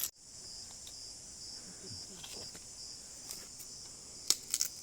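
Rainforest insect chorus: a steady, high-pitched shrill with several held tones, with a few sharp clicks about four seconds in.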